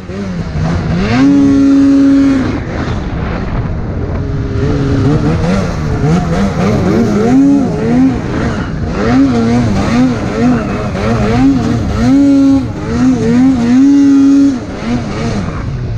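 Arctic Cat snowmobile engine revving hard with the throttle worked on and off. The pitch climbs and drops over and over, holding at the top for a second or so near the start, about twelve seconds in and again about fourteen seconds in.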